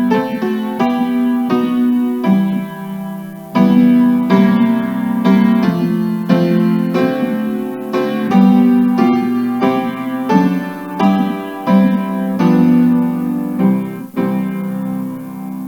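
Piano playing a steady succession of struck notes and chords.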